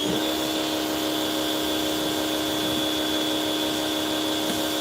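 Pressure washer motor spinning back up at the very start, then running steadily at one pitch with an even hum.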